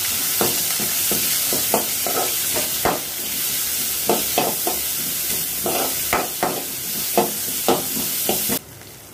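Chopped onion, green chilli and curry leaves sizzling in oil in a kadai, with a metal spoon scraping and knocking against the pan in irregular strokes as they are stirred. The sizzle cuts off suddenly near the end.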